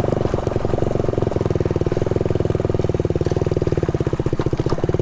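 Honda Z50 mini bike's small four-stroke single-cylinder engine running with a steady, even putt.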